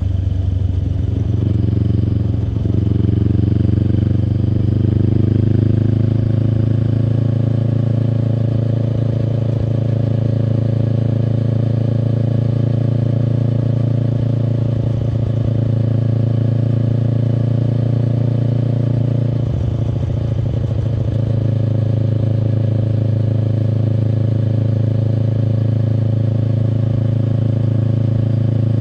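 2024 Kawasaki Eliminator SE's 398 cc parallel-twin engine running through a BEAMS full exhaust, cruising at a steady pace. The engine note changes briefly in the first few seconds and again about twenty seconds in.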